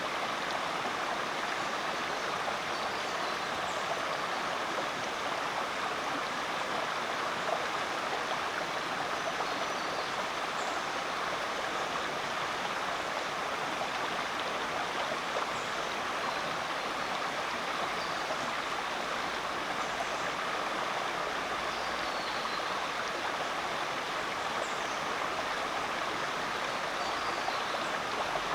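Creek water flowing: a steady, unbroken rush of running water.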